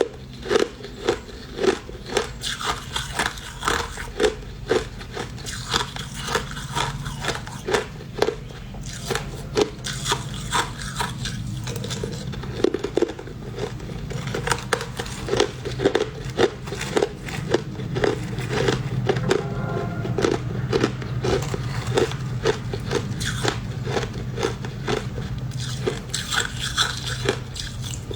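Crushed ice being bitten and chewed, a fast, uneven run of crisp crunches, about two or three a second, over a steady low hum.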